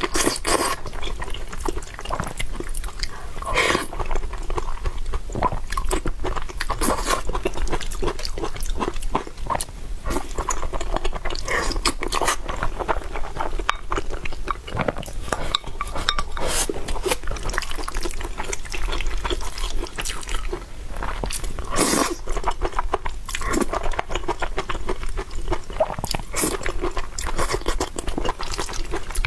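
Close-miked mukbang eating sounds: wet chewing and slurping of spicy noodles, with many small crunches and mouth clicks one after another.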